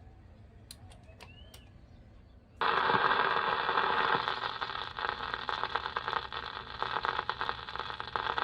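A few light mechanical clicks from a 1950s RCA Victor 45 RPM record changer. Then, suddenly, about two and a half seconds in, loud hiss and crackle of a 45 record's groove come through the unit's small tube-amplified speaker, with no music yet.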